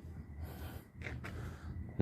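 A man breathing out sharply, a short snort-like exhale, over a low steady hum, with a couple of faint clicks about a second in.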